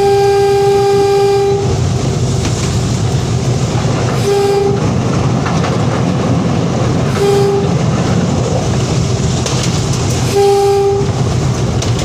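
Train horn sounding four blasts on one steady pitch: a long blast at the start, two short ones about four and seven seconds in, and a somewhat longer one near the end, over the continuous rumble of the train running on the rails.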